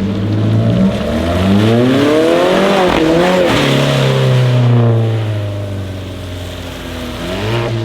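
A car accelerating hard: the engine's revs climb for about two seconds, drop sharply about three seconds in at an upshift, then hold a steady lower note that fades as it pulls away. Near the end another engine revs up quickly.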